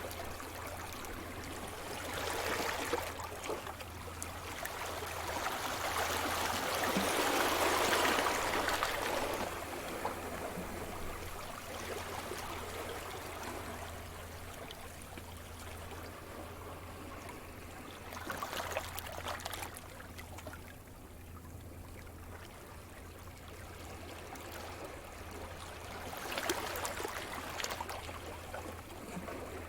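Sea surf: waves breaking and washing in with a hiss, rising and falling in swells. The biggest comes about a quarter of the way in and smaller ones follow, over a steady low rumble.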